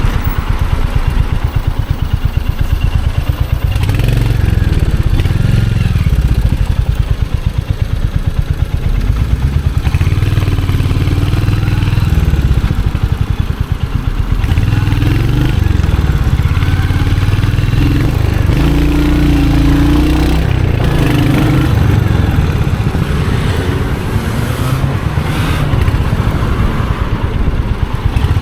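Royal Enfield Hunter 350's 349 cc single-cylinder engine and exhaust on the move, its even firing pulses loud and steady. The engine speed rises and eases with the throttle, with a brief drop in level about halfway through.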